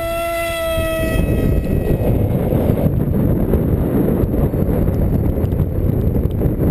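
Electric motor and propeller of an Easystar RC plane whining steadily at full throttle after launch, fading out about two seconds in as the plane flies off. Strong wind buffets the microphone with a steady low rumble.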